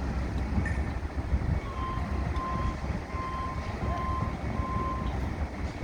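A vehicle's backup alarm beeping five times, about one beep every three-quarters of a second, over a steady low rumble.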